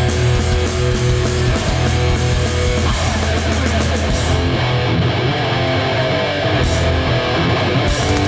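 Hardcore punk band playing live: heavy distorted electric guitars over bass and drums.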